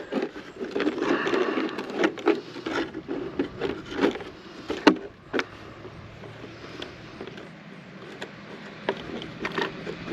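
Handling noises: scattered knocks, clicks and scraping as an RC truck and its parts are handled, busiest in the first half with a sharp knock about halfway through.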